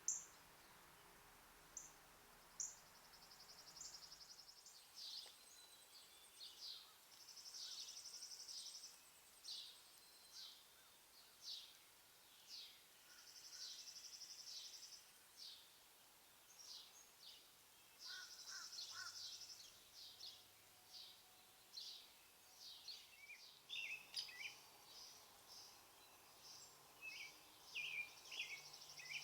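Faint bird song: repeated short, high chirping notes mixed with buzzy trills about a second long that come back several times.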